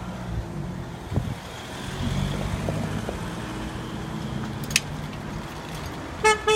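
Steady low engine running, with a single sharp click about five seconds in and a short horn toot starting near the end.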